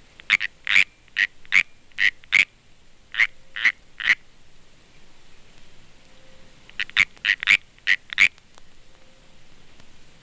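California canyon tree frog (Hyla californiae) giving its warning chirp, the call a male makes when seized by another male. Short, sharp chirps come in two quick runs, about ten in the first and about six more starting about seven seconds in.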